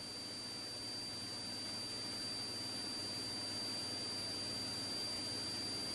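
Faint steady hiss of an idle radio channel with a thin, steady high-pitched whine over it.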